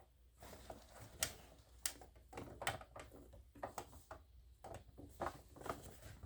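Faint, irregular light clicks and taps with a little rustle, the sound of small things being handled up close.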